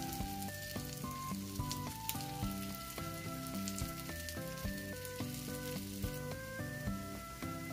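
French toast sizzling and crackling as it fries in a cast iron skillet, with small pops of spattering fat. A light melody of background music plays over it.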